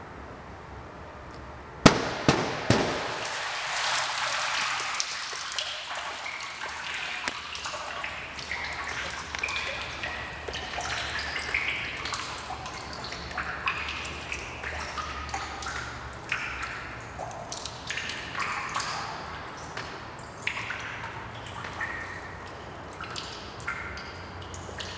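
Water drops raining onto a pool's surface, a dense patter of plinking drips. It starts suddenly about two seconds in with a few sharp knocks.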